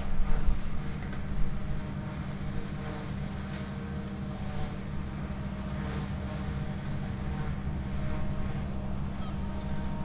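A tractor and forage harvester running at a steady, constant pitch, with low wind gusts on the microphone in the first second or two.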